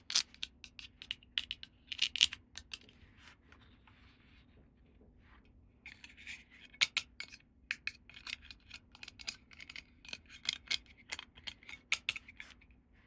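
Small plastic toy pieces and packaging handled close to the microphone: quick clicks and taps with some light scratching and rubbing. There is a lull of a few seconds near the middle.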